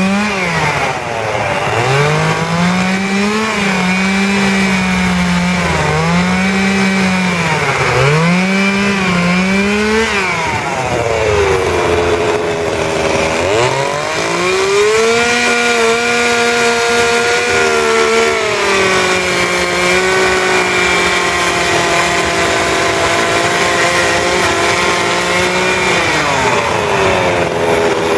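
Petrol chainsaw cutting wood, revving up and easing off about every two seconds at first. It then runs held at high revs for most of the rest, with a brief drop near the end.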